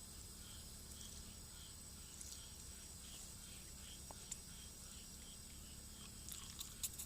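Insects chirping faintly: a steady high trill with a softer chirp repeating about three times a second. A few small clicks come near the end.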